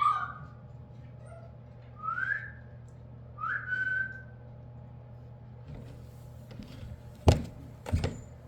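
Two short rising whistles calling a puppy, the second holding its pitch briefly at the top. Near the end, two sharp thumps.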